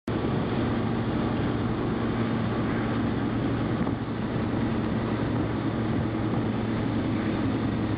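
Vehicle engine running steadily, a constant low hum under an even rushing noise, starting abruptly.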